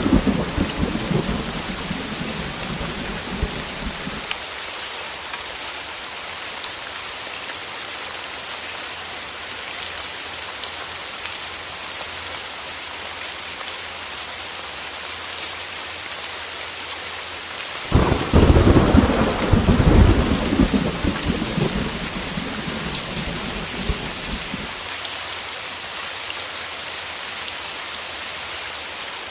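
Heavy rain falling steadily, with thunder. A rumble dies away over the first few seconds, and about two-thirds of the way in a sudden loud thunderclap breaks and rolls on for several seconds.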